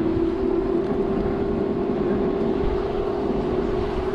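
E-bike hub motor whining in one steady tone that creeps slightly up in pitch and then holds, over a steady rushing noise.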